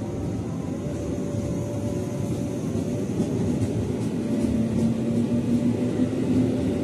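KRL electric commuter train running past close by, a steady rumble of its wheels on the rails. A steady hum joins about four seconds in.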